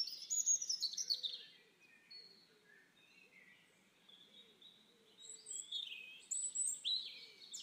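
Small birds chirping in quick runs of high, falling notes, faint overall, busy near the start and again near the end with a near-silent lull between.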